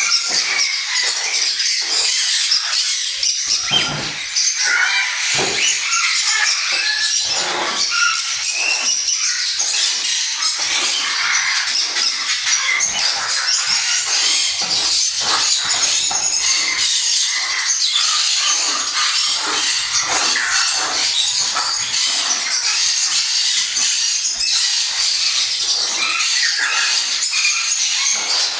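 A flock of parrots chattering and screeching without pause, many high calls overlapping, with a few louder calls standing out in the first ten seconds.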